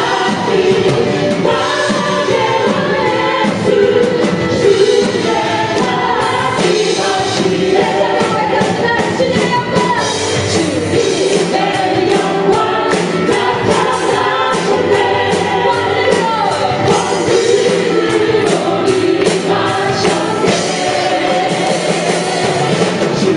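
Live worship band and singers performing a Korean praise song, group vocals over a full band with a steady beat.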